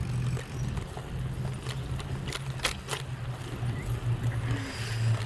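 Steady low rumble of a bicycle ride, with a few sharp clicks a little past the middle.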